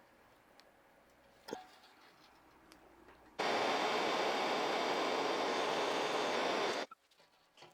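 A single sharp click, then a steady rushing hiss of air that starts abruptly about three seconds later, runs for about three and a half seconds and cuts off sharply.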